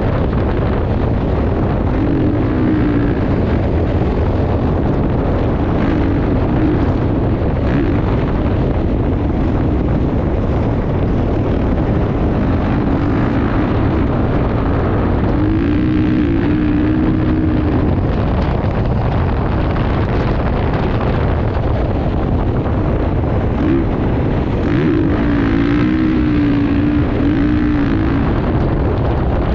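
Motocross motorcycle engine running under heavy wind noise on the microphone, its note wavering up and down a few times.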